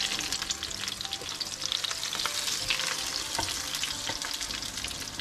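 Potato chapli kababs sizzling and crackling in shallow oil in a nonstick frying pan, with a spatula scraping and knocking in the pan as they are turned.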